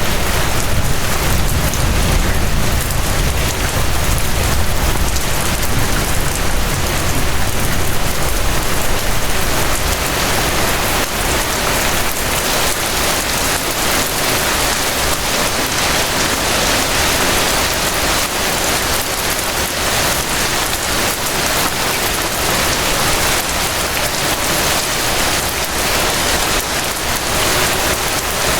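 Steady rain falling in a continuous, even hiss of drops on surfaces. A low rumble underneath fades out over roughly the first ten seconds.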